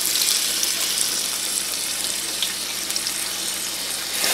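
Chicken and vegetable kebab skewers frying in hot oil in a nonstick pan: a steady sizzle with a few faint crackles of spatter.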